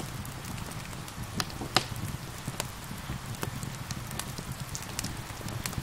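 Steady rain with a wood fire crackling over it, in frequent sharp snaps. A couple of louder pops come about a second and a half in.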